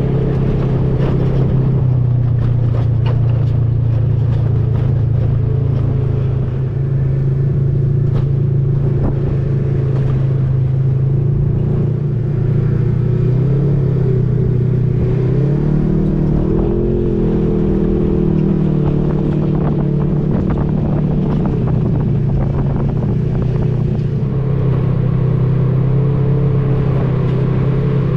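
A vehicle engine runs steadily under way, heard from on board, a loud even drone. Its pitch rises and then falls back a little over halfway through.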